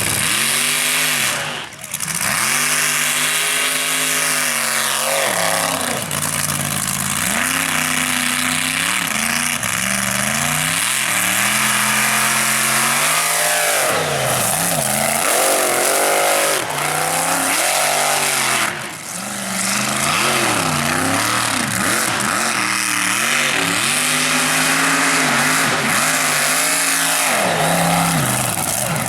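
Mega truck's big-block Chevrolet V8 at full throttle in a mud race, its revs rising and falling again and again as the tires spin and bite. The sound drops briefly about two seconds in and again a little past halfway.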